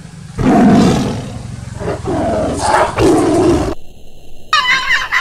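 A big-cat roar, a tiger's roar as used in a fake-tiger prank, rising in three long rough swells before cutting off suddenly. Near the end a different, higher-pitched sound starts whose pitch bends.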